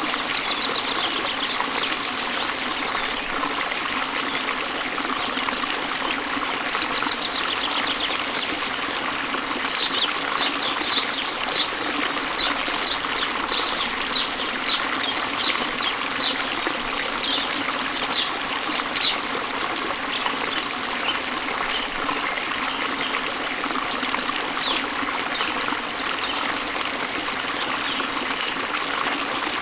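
Running water rushing steadily, as from a waterfall. About a third of the way in, a bird starts calling a quick series of short, high, falling notes, about two a second, which fades out near the two-thirds mark.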